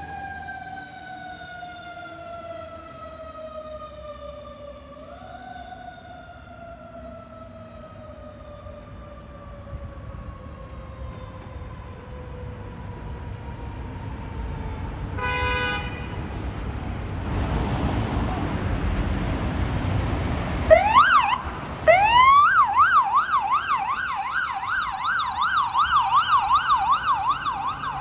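Emergency vehicle sirens. A mechanical siren winds down slowly in falling pitch over the first half, then comes a short horn blast and loud engine noise as the vehicle passes. An electronic siren then whoops up twice and switches to a fast yelp.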